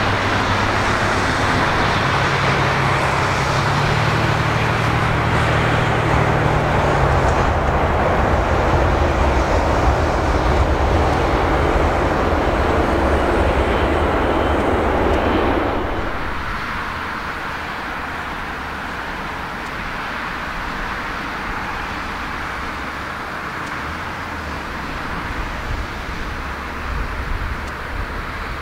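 Jet airliner engines running loudly as the aircraft comes in to land, a steady wide noise with a low hum beneath. About sixteen seconds in, it drops suddenly to a quieter steady background noise.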